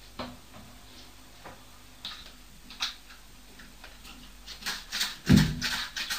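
Irregular knocks and clicks from the flat upstairs, heard through the ceiling. They cluster near the end, with one heavy low thud a little after five seconds in as the loudest sound.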